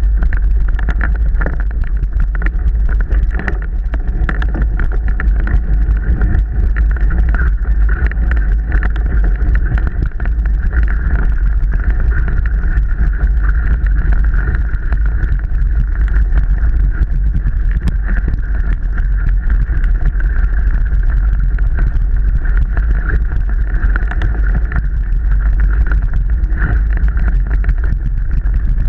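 Mountain bike ridden over a wet, rough trail in the rain: constant wind buffeting on the microphone, with a steady stream of rattles and knocks from the bike over the ground.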